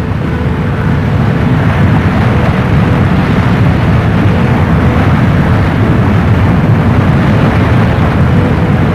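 Steady, loud low roar of a burning oil well fire, flames and gas rushing out of the wellhead.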